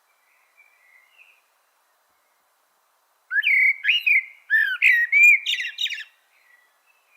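A songbird singing: a few faint short notes, then about three seconds in a loud phrase of quick, sliding whistled notes lasting nearly three seconds.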